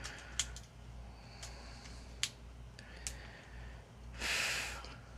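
Plastic parts of a Legacy United Sandstorm transforming figure clicking sharply four or five times as they are handled, then a short, louder breath out through the nose a little over four seconds in.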